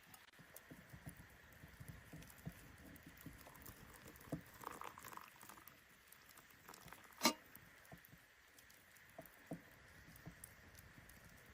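Wood fire crackling quietly, with small irregular pops and one sharp snap about seven seconds in, over a faint steady hiss.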